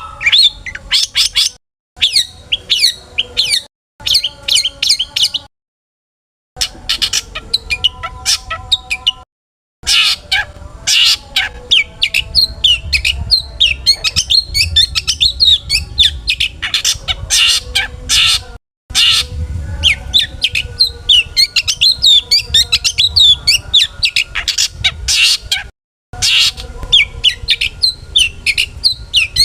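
Long-tailed shrike (cendet) singing a fast, scratchy stream of chirps, squawks and mimicked song phrases. It comes in several bursts separated by abrupt silent cuts.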